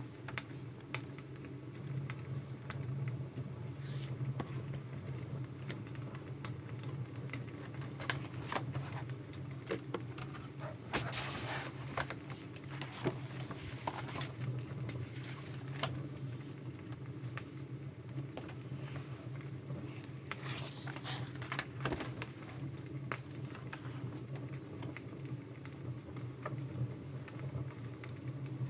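Wood fire crackling: an irregular, continuous run of small pops and snaps over a steady low hum.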